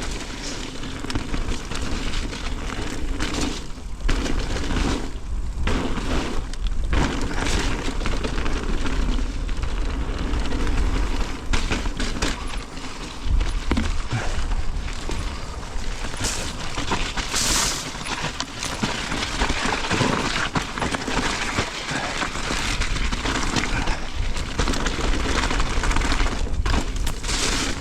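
A mountain bike being ridden fast down a dirt trail, heard from a GoPro on the rider: steady wind and tyre noise with a low rumble, broken by frequent sharp knocks and rattles from the bike hitting bumps.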